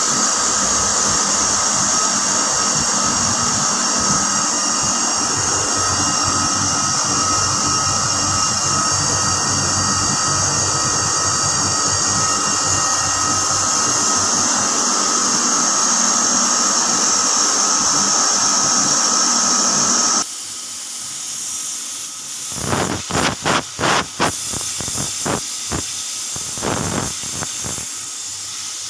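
Air-conditioning compressor running with a loud, steady, high-pitched whining noise, a sign of an abnormal fault in the compressor. About two-thirds of the way through it stops abruptly, and a few knocks and a fainter hiss follow.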